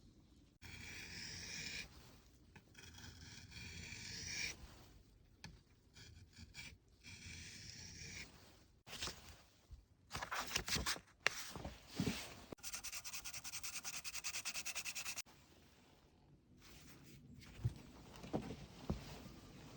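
Rubbing strokes of a steel hook-knife blade against an abrasive, as in sharpening or sanding the blade. The strokes come in several short, separate passages, with a few sharp clicks and then a quick run of rapid, even strokes in the middle.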